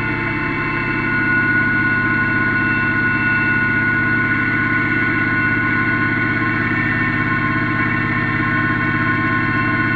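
Yanmar F16D mini tractor's diesel engine running steadily, with a steady high-pitched whine over the engine note.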